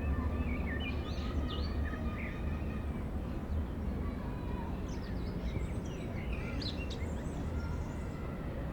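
City park ambience: a steady low rumble of background traffic with small birds chirping over it, in clusters about a second in and again from about five seconds.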